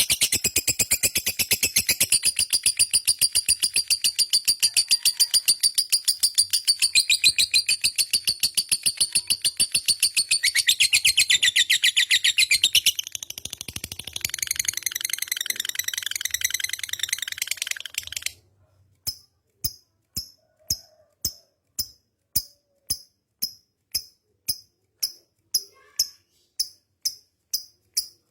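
Lovebird giving its long ngekek trill, a fast unbroken chatter of high notes that softens after about thirteen seconds and breaks off at about eighteen. After it come short sharp ticks at about two a second, getting a little quicker near the end.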